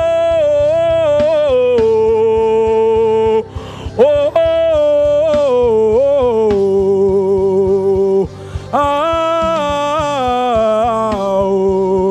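Gospel worship singing: a solo voice holds long, sliding notes in three phrases over instrumental backing, with short breaks about three and a half and eight seconds in.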